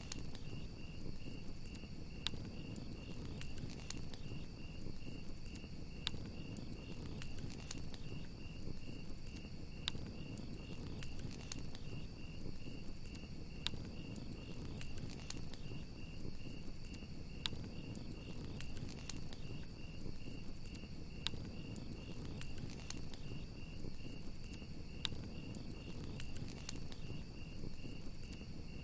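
Crickets chirping in a steady, rapid pulsing trill over a crackling campfire, with sharp pops every few seconds.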